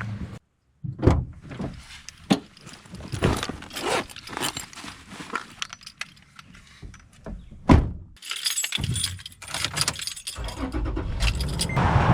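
Keys jangling amid a run of clicks and knocks. About ten seconds in, a steady vehicle rumble begins, as of a car engine running or driving.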